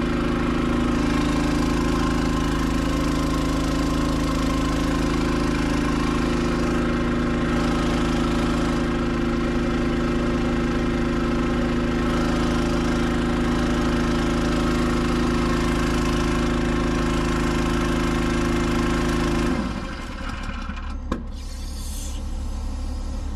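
An engine or motor running steadily at one constant speed, cutting off abruptly near the end while a quieter engine keeps running underneath.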